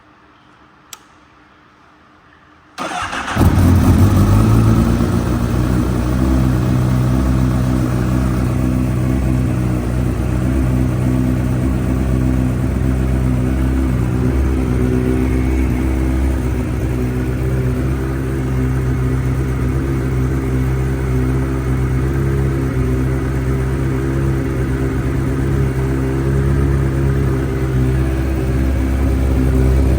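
Honda CBR1000RR SP2 race bike's inline-four engine, through a full titanium Akrapovic exhaust, started up: a single click about a second in, then a brief crank a little under three seconds in as the engine catches at once, then it idles steadily at an even pitch.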